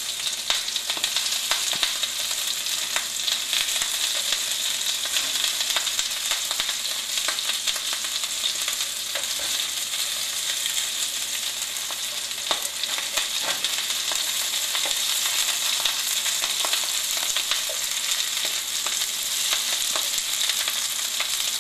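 Chickpea and potato patties shallow-frying in hot oil in a nonstick pan: a steady sizzle with constant fine crackling. A few scrapes of a plastic spatula sound as the patties are turned over.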